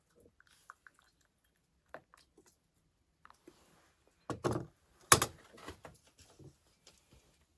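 Light clicks and taps from objects being handled, with two louder knocks a little after four and five seconds in.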